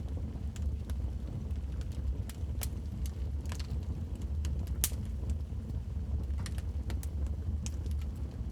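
Wood fire burning in a fireplace: a steady low rumble of the flames with irregular sharp crackles and pops, the loudest pop about five seconds in.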